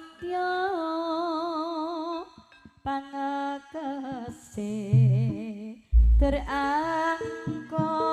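A female Javanese singer singing a slow, ornamented solo vocal line in long held notes with a wavering pitch, with short breaks between phrases. A few deep drum strokes come in about five to six seconds in.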